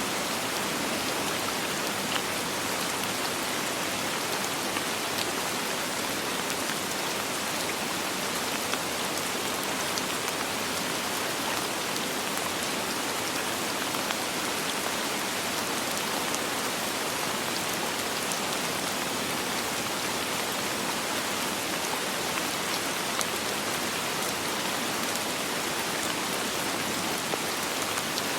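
Steady rain falling, an even hiss with scattered small drop ticks and no thunder.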